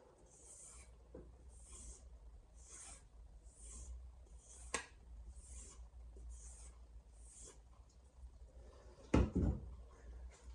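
Santoku knife blade being stropped on a leather strop loaded with diamond compound: soft rubbing swishes, about one stroke a second, eight or so in all. A sharp click about halfway through and a louder knock about nine seconds in.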